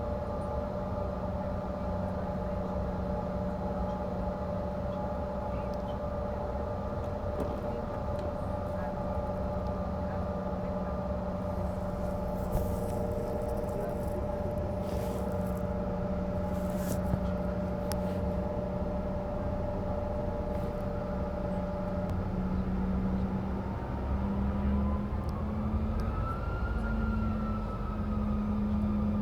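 Jet engines of a CRJ-550 regional jet heard from inside the cabin: a steady hum and whine over a low rumble. Near the end the engine tone steps up and a whine rises in pitch as power is increased.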